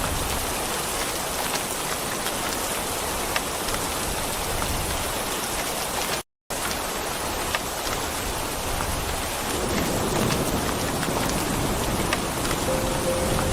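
Steady heavy rain hissing and pattering, with a low rumble of thunder building over the last few seconds. The sound cuts out completely for a split second about halfway through.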